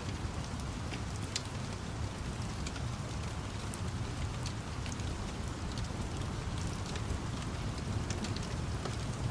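Steady rain over a continuous low rumble, with scattered sharp crackles from a wood fire.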